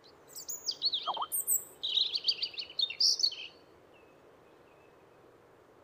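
European robin singing one phrase of quick, high, varied warbling notes and trills lasting about three seconds, then stopping.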